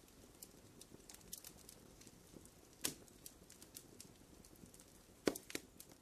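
Faint campfire crackling: scattered small pops and snaps, with a louder pop about three seconds in and two more close together near the end.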